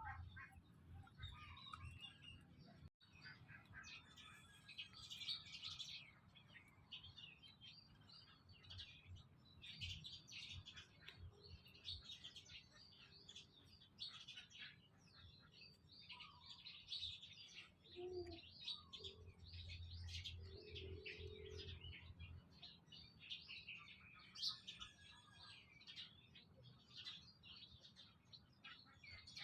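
Faint, continuous chirping of many birds, with a brief dropout about three seconds in.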